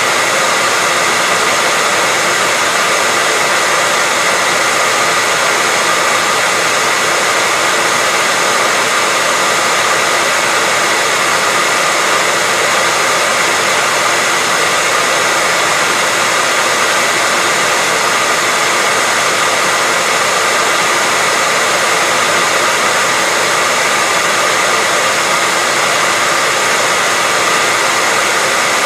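Hair dryer running continuously at a steady pitch: an even rushing blower hiss with a faint motor whine, unchanging throughout.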